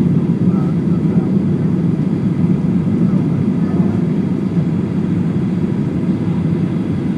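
Steady low roar of a Boeing 737-800 heard from inside the passenger cabin in flight: engine and airflow noise.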